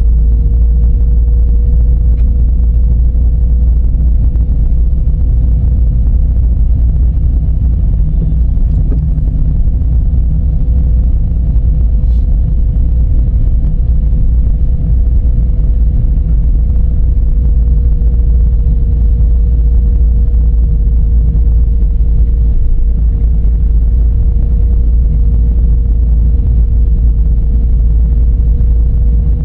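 Dodge Charger driving at a steady pace: a loud, steady low rumble of road and engine noise with a constant hum over it.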